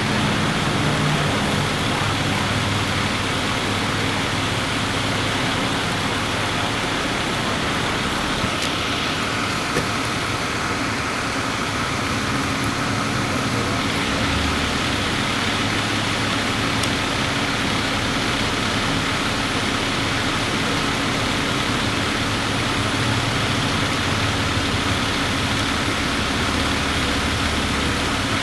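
Motor vehicle engines idling steadily, over a constant wash of roadway noise.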